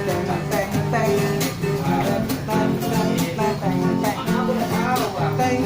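Acoustic guitar strummed and picked in a steady rhythm, playing an instrumental passage between sung lines of a slow ballad.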